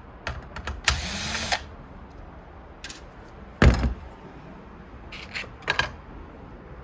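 A power drill used as a screwdriver spins briefly about a second in. It is followed by one loud knock and a few sharp clicks as the parts are handled.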